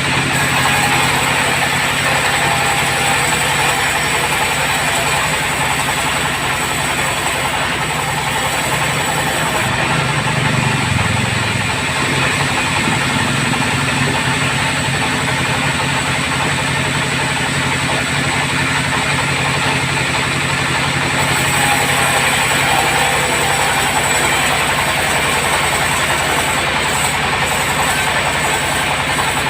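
Band sawmill running with a loud, steady mechanical drone and a constant low hum, with a slight swell in the low hum around ten seconds in.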